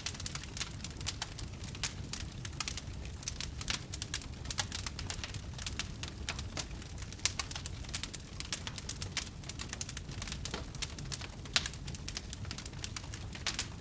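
Wood campfire burning, with a steady low rumble and many irregular sharp crackles and pops; one louder pop comes near the end.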